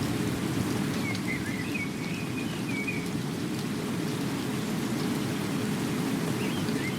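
Steady rain falling, with a bird's brief warbling call twice: about a second in, and again near the end.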